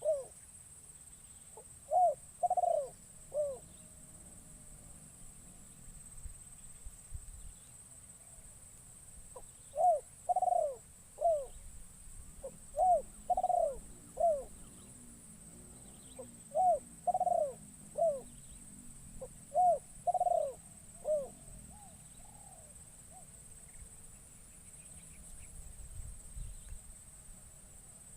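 A spotted dove cooing in short three-note phrases, about five times with pauses of a few seconds between them: a captive decoy bird calling to lure wild doves.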